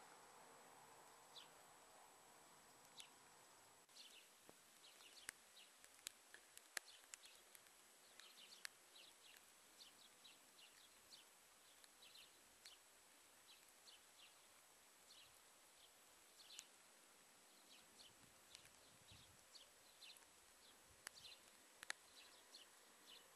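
Near silence: quiet outdoor ambience with small birds chirping faintly in short, high, scattered calls, and a few light clicks.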